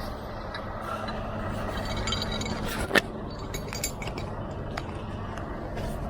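Heavy truck diesel engine running steadily, with light metallic clinks and rattles and one sharp metal knock about three seconds in.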